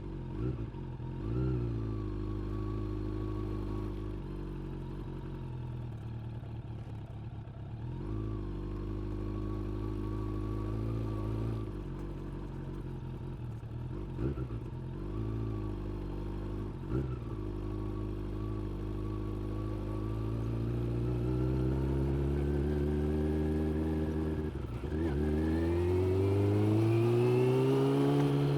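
Suzuki GSX600F motorcycle's inline-four engine running at low, fairly steady revs with a few short throttle blips. Over the last several seconds the revs climb steadily, drop sharply once, then climb again.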